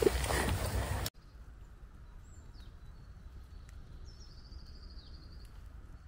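About a second of rumbling wind-and-handling noise on the microphone, which cuts off suddenly to quiet woodland hiss. A bird calls over it: one short falling call about two seconds in, then a longer high trill about four seconds in.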